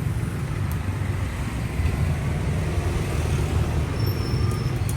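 Road and wind noise from riding a motorcycle through city traffic: a steady low rumble.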